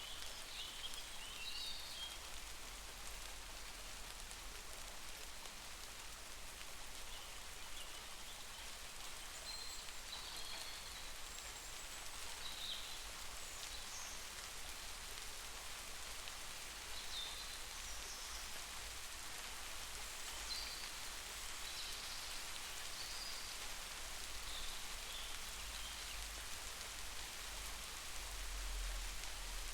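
Heavy rain falling steadily as an even hiss, with scattered short high chirps over it and a low rumble that swells near the end.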